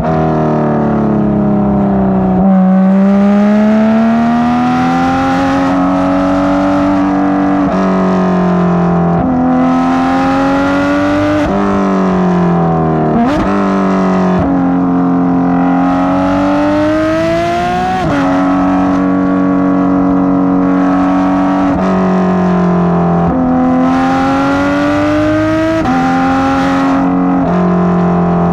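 Porsche 991.2 GT3 RS naturally aspirated 4.0-litre flat-six, breathing through catless street headers, pulling hard through the gears. Its pitch climbs and then drops at each quick gear change, about a dozen times, with one sharp crack about halfway through.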